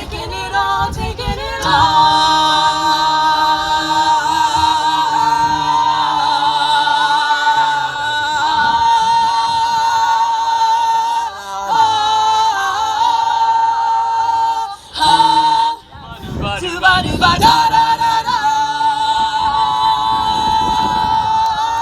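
A choir singing long held chords without clear words, the notes changing slowly. The singing breaks off briefly about fifteen seconds in, then resumes.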